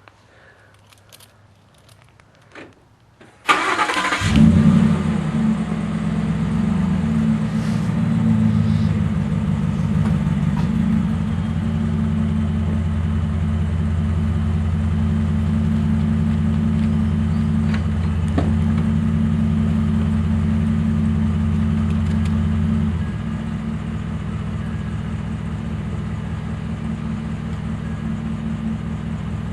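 A 2011 Ford F-150's 5.0 V8, breathing through a Magnaflow single-in dual-out muffler and the factory resonator, is started. After a few quiet seconds the starter cranks briefly and the engine catches about four seconds in, flaring and then running at a steady idle. About 23 seconds in the idle steps down and gets quieter.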